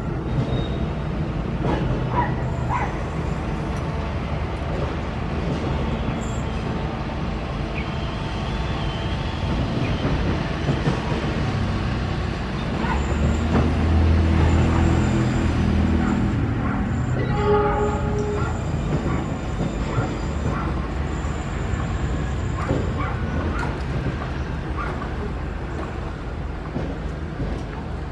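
Diesel-hauled passenger train's coaches rolling away over curved track, with steady rail rumble and scattered wheel clicks. A low engine rumble swells in the middle, and a short horn note sounds a little after it.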